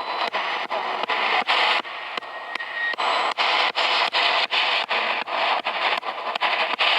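Spirit box scanning through radio frequencies: a steady hiss of static cut by short breaks about four times a second as it jumps from channel to channel.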